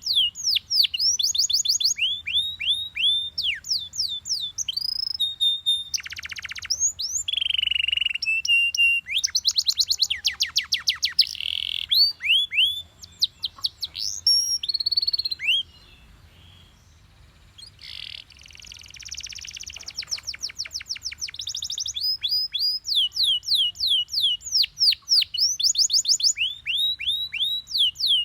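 Yellow Belgian canary singing a long song of trills and runs of quick falling whistled notes, several a second. It breaks off briefly a little past the middle, then takes up the runs again.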